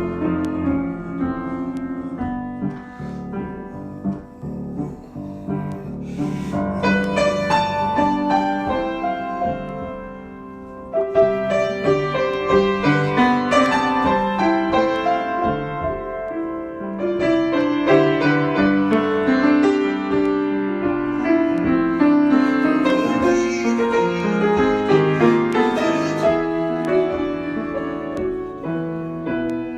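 Solo piano improvisation: flowing chords and melody in phrases that swell and fade, with a brief lull about ten seconds in before playing resumes more strongly.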